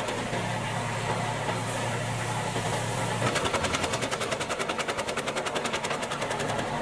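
Gas-powered wood chipper running steadily under its small engine, with a rapid, even clatter as it chips. The clatter comes in briefly at the start and again from about three seconds in, easing off near the end.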